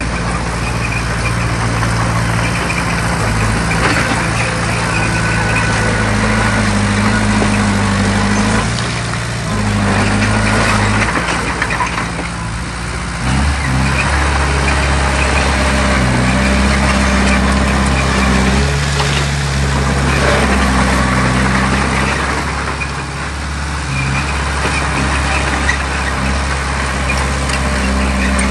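Diesel engine of heavy earthmoving machinery running, its pitch stepping up and down several times as the load changes, over a steady clatter and rumble of work.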